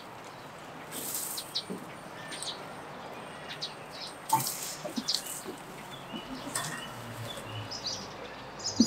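Small birds chirping now and then, with a cluster of quick chirps near the end, over scattered clicks and short rustles.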